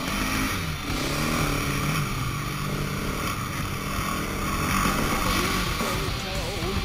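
KTM 690 Enduro's single-cylinder engine running under throttle, its pitch dipping about a second in and wavering up and down later, with wind rushing over the microphone.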